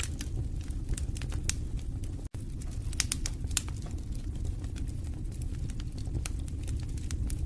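Wood fire in a fireplace crackling: a steady low rumble of burning with frequent sharp pops and snaps at irregular intervals. The sound cuts out for an instant a little over two seconds in.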